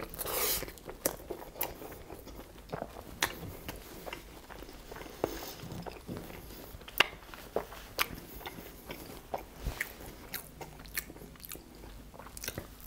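A bite into a beef soft taco at the start, then close-miked chewing with many irregular sharp mouth clicks.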